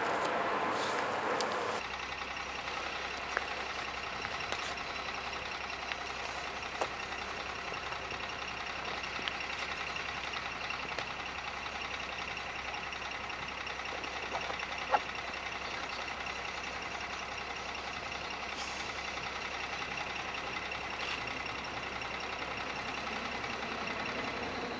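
Rhaetian Railway train running: a steady even noise with a few faint scattered clicks. The sound drops and changes abruptly about two seconds in.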